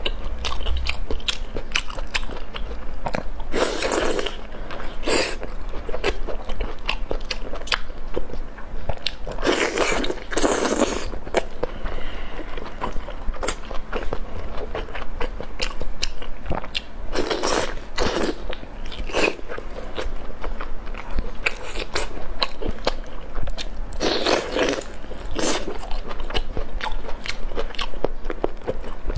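Close-miked biting and chewing of a sauce-glazed sausage: a steady run of wet mouth clicks and smacks, with louder chewing bursts every few seconds.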